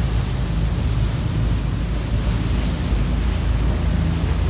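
Wind buffeting the microphone over a steady low drone of ship engines.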